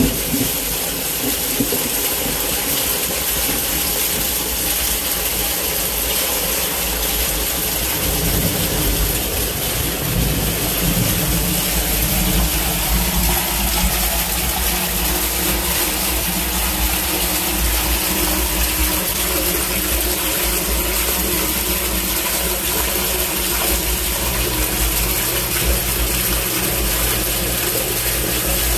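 Torrential thunderstorm rain falling steadily as an even, loud hiss with a low rumble beneath it.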